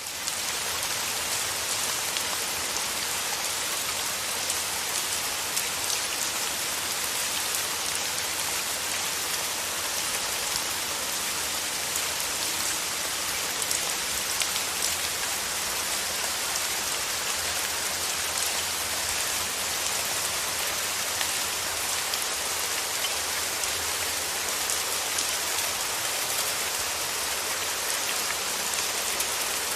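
Steady rain falling, an even hiss dotted with the patter of individual drops, swelling up quickly at the very start.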